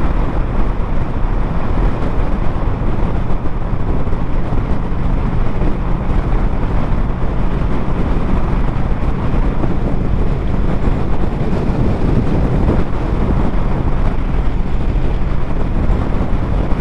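Motorcycle on the move: steady wind rush over the microphone, with the engine's low, even drone underneath.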